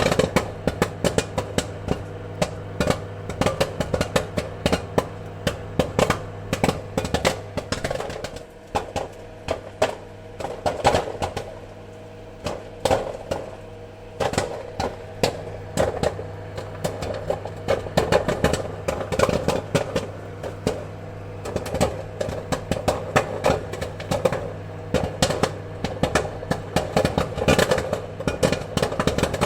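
Popcorn kernels popping in quick, irregular succession, several pops a second, over a steady low hum.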